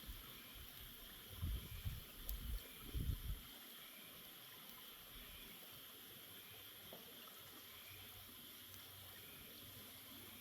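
Faint steady rushing hiss like running water. Between about one and a half and three and a half seconds in, a few low thumps and rumbles hit the microphone.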